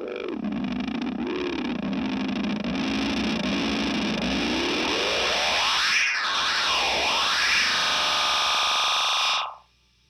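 Benson Delay tape-delay pedal self-oscillating behind an electric guitar: a sustained feedback tone that warbles slowly at first, then sweeps high and back down in pitch several times. It cuts off suddenly near the end.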